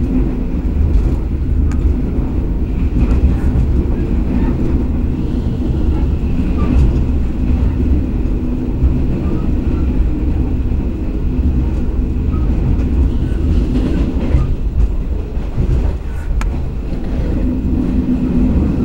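Argo Wilis express passenger train running at speed, heard from inside a coach: a steady, loud rumble of wheels on rails, with a few sharp clicks scattered through it.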